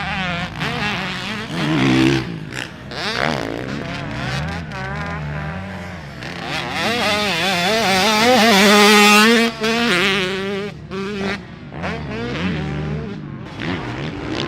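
Racing engines revving hard and passing, several engines rising and falling in pitch; the loudest pass builds about halfway through and cuts off sharply a couple of seconds later.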